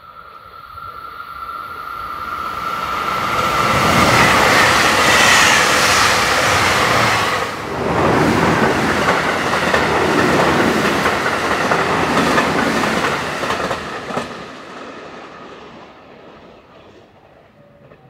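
A train running through the station on the JR Kobe Line, its wheels clattering on the rails. The sound swells to a peak around four to seven seconds in, dips sharply for a moment just before eight seconds, stays loud, then fades away over the last few seconds.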